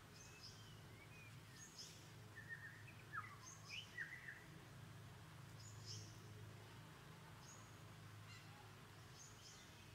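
Faint, scattered bird chirps and short tweets, busiest around three to four seconds in, over a low steady hum.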